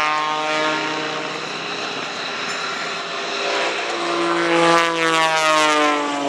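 Aerobatic biplane's 400-horsepower piston engine and propeller droning through a manoeuvre. The pitch sinks over the first few seconds, then grows louder about four seconds in, rising and then falling in pitch as the plane passes.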